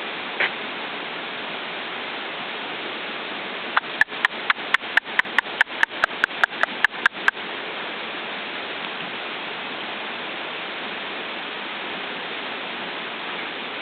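Steady rush of stream water, with a rapid burst of about fifteen camera shutter clicks, about four a second, starting about four seconds in and lasting some three seconds.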